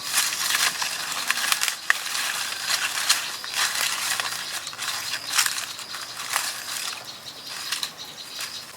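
Dense, irregular crunching and crackling, a quick run of small cracks that eases off near the end.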